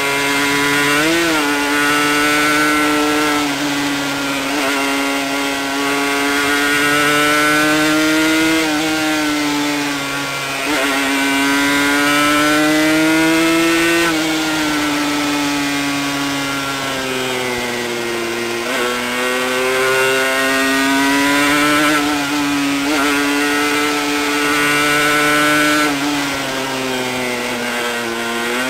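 Suzuki RG125γ's 125 cc single-cylinder two-stroke engine running at high revs, its pitch climbing and falling over several seconds at a time with several brief sharp dips.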